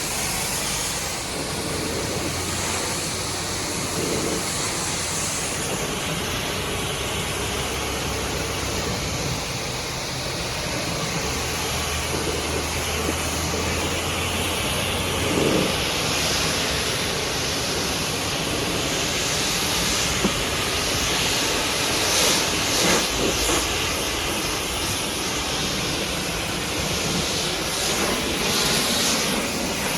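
Pressure washer spraying a high-pressure water jet against a muddy truck: a steady hiss of spray, with a low hum beneath it for about the first half.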